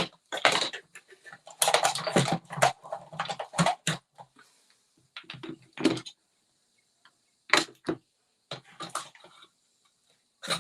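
Craft supplies, plastic ink pads among them, being handled and set down on a table: a busy run of clicks and knocks for the first few seconds, then a few scattered taps.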